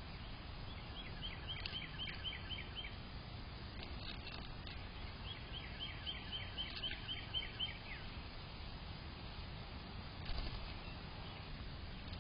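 A small songbird singing two runs of quick, repeated down-slurred notes, about five a second, each run lasting two to three seconds.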